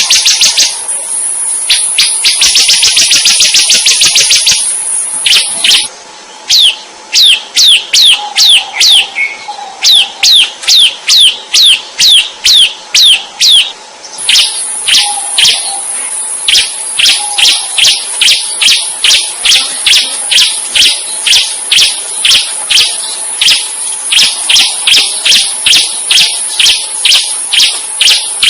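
Bar-winged prinia (ciblek) singing hard: bursts of fast buzzy trills, then a long run of sharp, falling high notes about two a second, later over a steady high hiss.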